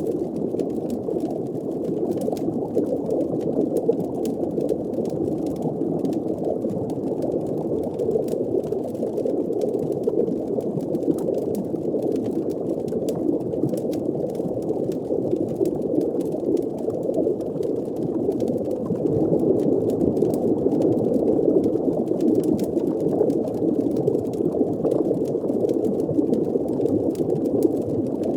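Designed underwater-fireplace ambience: a muffled, steady wash of bubbling water with faint crackling over it, growing a little louder about two-thirds of the way through.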